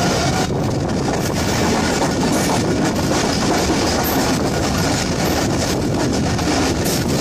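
A passenger train running along the track, recorded from the moving coach: a steady loud rumble of wheels on rails with the clatter of the wheels over the rail joints.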